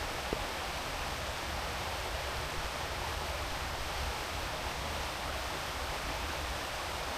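Creek water running steadily, an even rushing hiss, over a low rumble, with one brief tick about a third of a second in.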